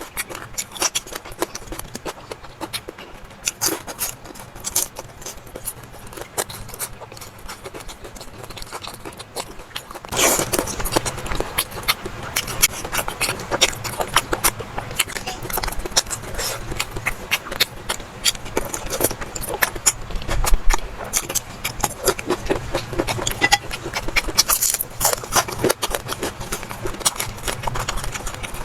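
Close-miked eating sounds: chewing and mouth noises with many small clicks and scrapes of utensils against dishes, getting louder and busier about ten seconds in.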